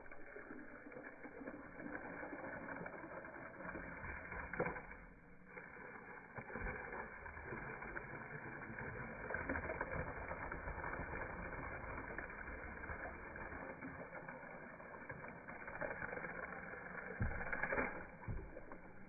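Water from a garden hose spraying and splashing onto a plastic coffee maker, heard in slowed-down slow-motion playback as a low, muffled rushing, with a knock about four seconds in and another near the end.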